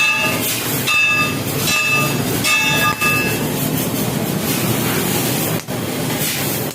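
Laser cutting machine running: a steady mechanical noise, with high whining tones from the cutting head's drive motors starting and stopping through the first few seconds.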